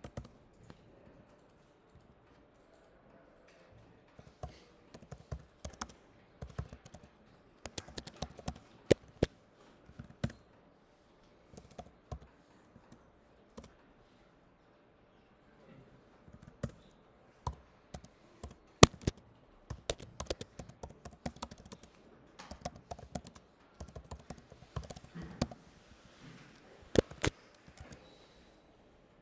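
Typing on a computer keyboard in irregular runs of keystrokes, with short pauses and a few sharper key strikes.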